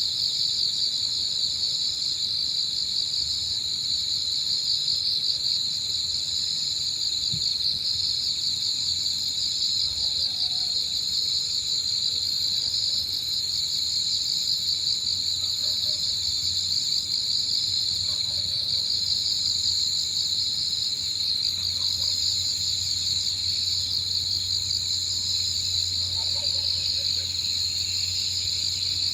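Several insects chirring together in a steady, high, fast-pulsing trill, with a second, thinner, higher-pitched ringing over it.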